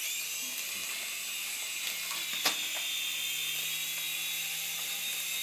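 Syma S107G mini RC helicopter in flight, its small electric motors and coaxial rotors whirring steadily with a high whine. A single click about two and a half seconds in.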